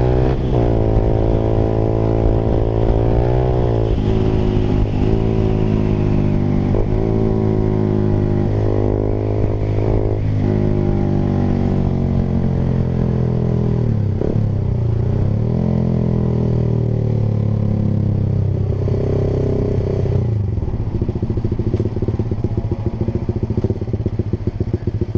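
Honda Sonic 150R's single-cylinder four-stroke engine through an aftermarket Proliner TR1R short exhaust, on the move: the throttle is closed and reopened several times, the note sliding down between each pickup. About twenty seconds in it drops to a lower, rougher note as the bike slows.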